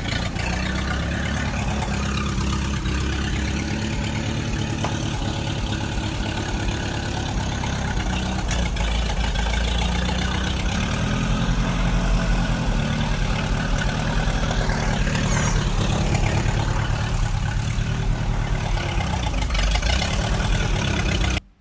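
Mini tractor's engine running steadily, a little louder from about halfway; the sound cuts off abruptly just before the end.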